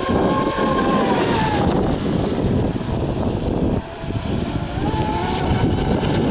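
Brushless electric motors of radio-controlled Piranha racing boats whining at speed, the whine sagging slightly in pitch in the first second or two and coming back about five seconds in, over heavy wind rumble on the microphone.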